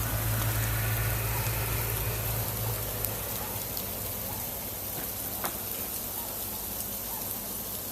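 A 4x4 truck's low engine rumble fades away over the first few seconds. Underneath is a steady hiss of falling sleet and snow, with scattered faint ticks.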